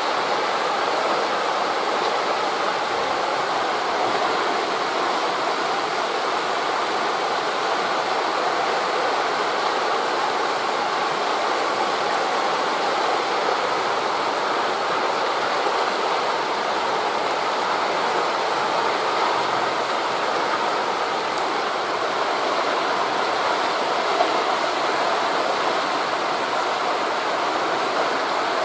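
Steady rushing of wind through forest leaves mixed with surf on the shore, an even wash of noise with no distinct breaks or swells.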